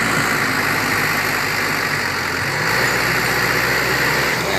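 A motor vehicle's engine running steadily under a noisy hiss.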